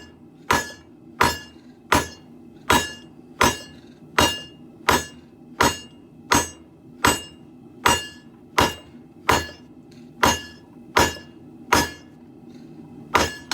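Hammer blows on an anvil while hand-forging steel for a sword: a steady rhythm of about one blow every three quarters of a second, each strike ringing briefly.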